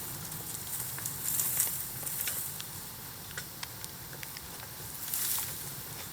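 Bamboo bonfire burning, with scattered sharp crackles and pops over a steady hiss. Two louder surges of hissing come about a second in and again near the end.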